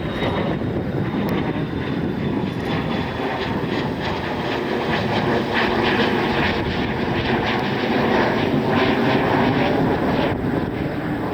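Jet engines of a departing aircraft at takeoff power: a steady, loud rush of engine noise that swells a little past the middle and eases slightly near the end.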